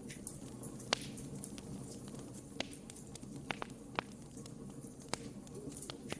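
Wood fire burning in a fireplace: a steady low rush of flames with irregular sharp crackles and pops, the loudest about a second in.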